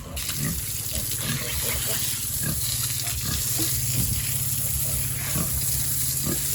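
A hose of water starts spraying right at the start, a steady hiss through the rest, while pigs keep grunting in short calls and a low steady hum runs underneath.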